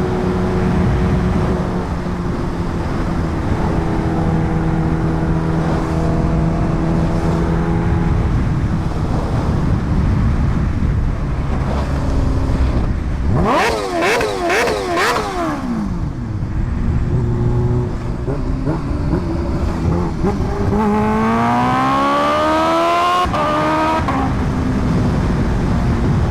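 Kawasaki Ninja H2R's supercharged inline-four engine heard from on board while riding, with wind noise. Around the middle the pitch swings up and down several times in quick succession. Later the engine pulls hard in one long rise in pitch that breaks off sharply at a gear change.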